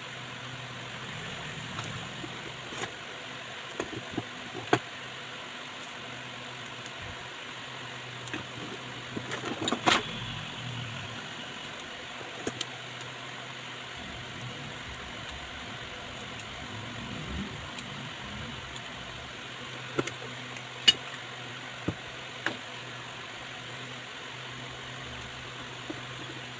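Steady low hum with scattered sharp clicks and taps, like small tools and parts being handled at a workbench.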